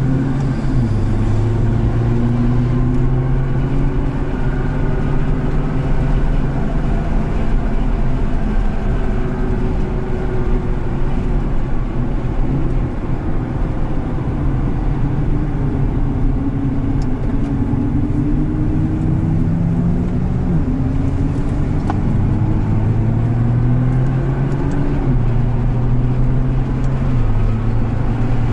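Nissan R35 GT-R's twin-turbo 3.8-litre V6 heard from inside the cabin, pulling through the gears: the engine note climbs steadily and drops sharply at each upshift, a few times.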